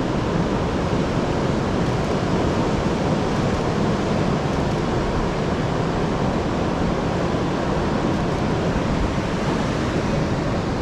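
Steady rushing noise of ocean surf and wind at the shore, with no distinct wave breaks or other events.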